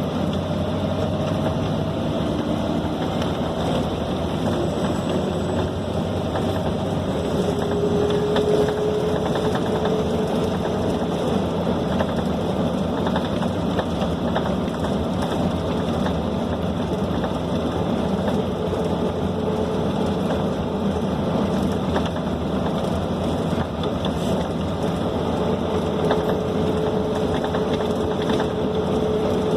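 Scania K270 city bus heard from inside the cabin while under way: a steady diesel engine and road rumble. About five seconds in, a whine rises in pitch for a few seconds as the bus picks up speed, then holds. It comes back near the end.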